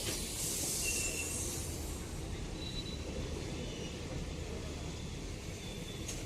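Bidar–Hyderabad Intercity Express rolling past on departure: a steady rumble of wheels on rail, with a brief hiss about half a second to a second and a half in and a few faint, short squeals later.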